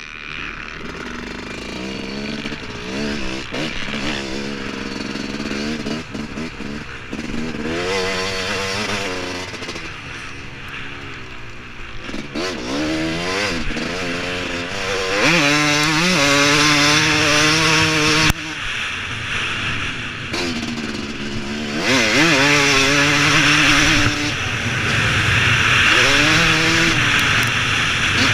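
Yamaha YZ250 two-stroke motocross engine, bored out to 300 cc with a big bore kit, revving up and down repeatedly as it is ridden, heard from a camera mounted on the bike. Over the second half it holds long stretches at high revs, with one sudden drop in revs about two-thirds of the way through.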